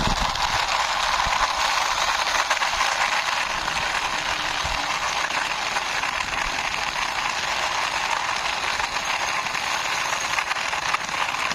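Toy double-decker bus's plastic wheels rolling along a rough wall top as it is pushed by hand, giving a steady gritty rattle.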